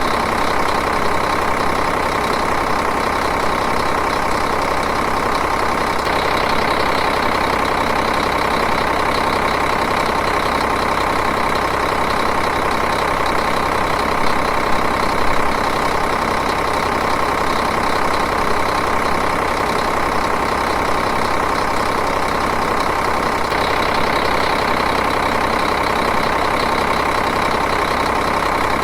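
Diesel engine idling steadily, with an even, unchanging clatter.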